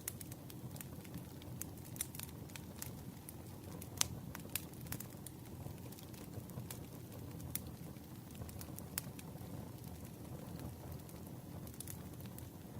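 Campfire crackling: a steady low rush of burning wood with frequent sharp pops and snaps, the loudest pop about four seconds in.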